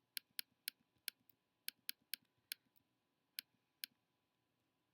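Faint computer mouse clicking: about ten sharp clicks at an uneven pace, stopping about four seconds in.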